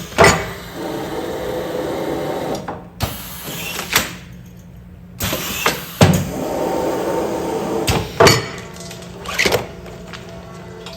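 Commercial container sealing machine working through a run of food containers: sharp mechanical clunks every couple of seconds, with spells of steady running in between and a low hum throughout.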